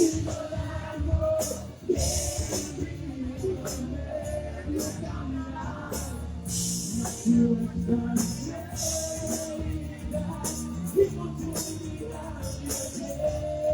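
Live band music with a drum kit and cymbals keeping the beat under a wavering melodic line: a pop song played between sung lines.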